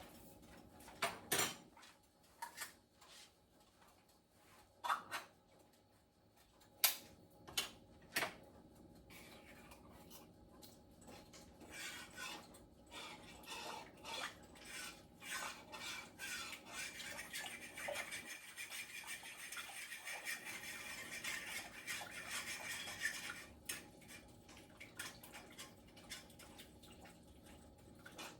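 Metal utensils clinking and knocking against a pot, then a spell of steady scraping and stirring: a can of condensed cream of chicken being emptied into a pot of broth and stirred in.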